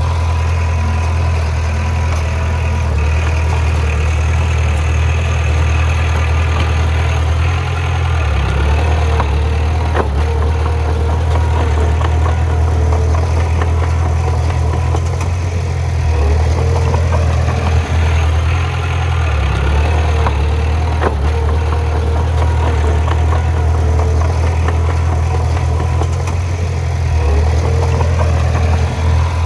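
Bulldozer's diesel engine running steadily under a deep, even drone, its note dipping and returning a few times, with a few light clanks.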